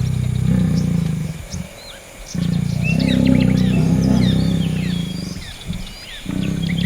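A big cat, lion or tiger, growling in long, low rumbles: one of about a second and a half, then a longer one of about three seconds, then a short one near the end. Small birds chirp in the background.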